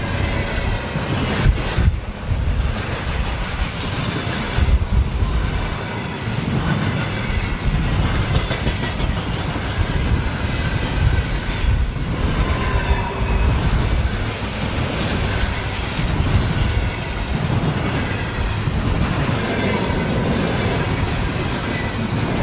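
Freight train hauled by a 3ES5K 'Ermak' electric locomotive rolling past, its wheels running steadily over the rails with a continuous rumble and rattle. Faint high wheel squeals come and go.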